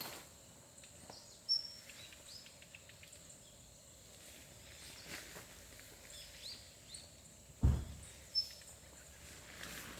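Birds giving short, scattered high chirps and quick sweeping calls over a faint steady hum of insects. About three-quarters of the way through comes one dull low thump, the loudest sound.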